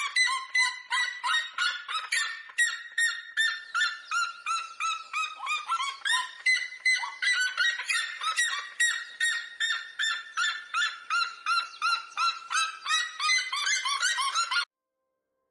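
Red-legged seriema calling: a long, loud series of rapid yelping notes, about three a second, sometimes overlapping as if two birds are calling together. The calling cuts off abruptly near the end.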